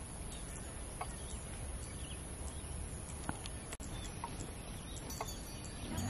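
Outdoor field ambience: a steady low background noise with a few faint, short bird calls scattered through it.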